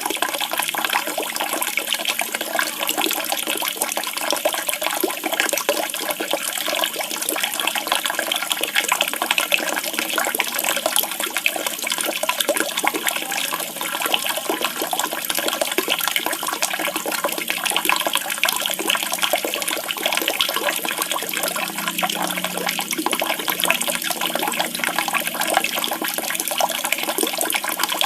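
Running water, a steady splashing and trickling, used as a water-therapy track between birdsong recordings.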